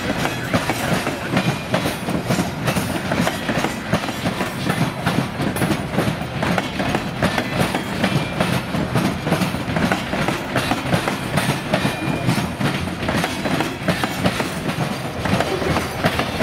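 A freight train of tank cars and steel gondola cars rolling past close by. Its wheels clatter steadily and rapidly over the rails.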